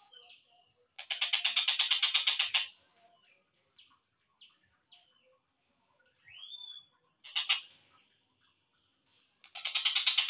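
Tengkek buto (collared kingfisher) calls, slowed down: a rapid train of harsh, evenly repeated notes lasting about a second and a half, a few faint chirps and one rising-then-falling whistle, then another rapid train near the end.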